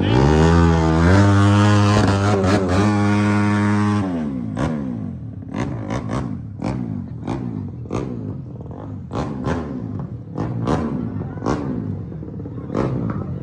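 Motorcycle engine revved up hard and held at high revs for about four seconds, then dropping off, followed by a long irregular string of sharp pops and cracks.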